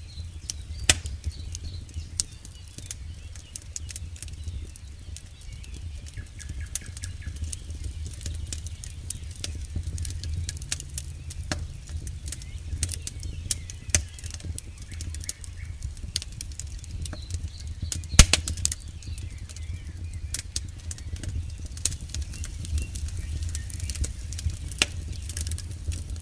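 Campfire burning: irregular crackles and snaps of burning wood over a steady low rumble of flame, with one sharp, much louder pop about eighteen seconds in.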